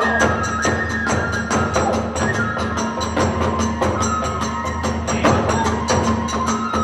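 Hiroshima kagura hayashi ensemble playing: a fast, steady beat of drum and hand-cymbal strikes under a held, wandering bamboo-flute melody.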